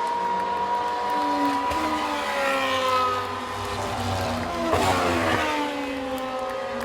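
Racing cars' engines at speed around a circuit, several pitches overlapping as cars rise and fall in revs. About five seconds in, one car passes close and its note drops as it goes by.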